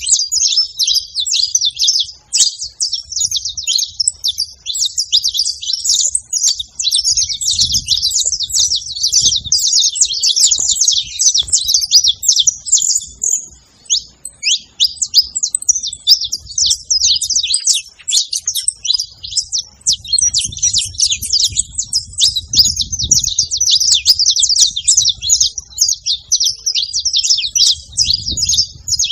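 Saffron finch (canário-da-terra) chirping and singing in a rapid, nonstop stream of high, sharp notes, with a brief lull about halfway through.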